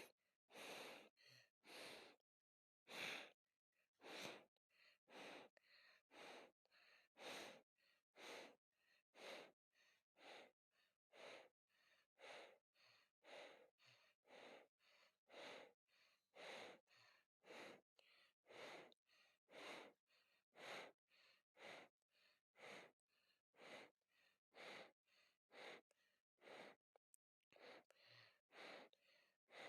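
Ceiling fan running, its blades giving faint, rhythmic whooshes of moving air at about two a second.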